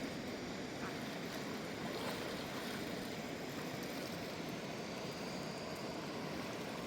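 Steady rushing of a fast mountain river over rocks: an even, unbroken roar of water.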